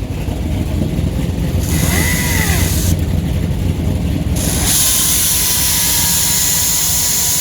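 A small-block Chevy V8 running steadily in gear, spinning the raised rear hub, while a cutting tool is held against the wheel spacer bolted to it: a hissing metal scrape with a faint squeal, about two seconds in for a second or so, then again from about four and a half seconds on.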